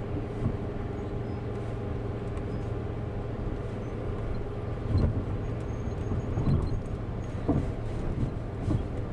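Minivan cabin noise while driving slowly over a rough ballast-strewn yard road: a steady low engine and road rumble, with a few low thumps from bumps about five, six and a half and seven and a half seconds in.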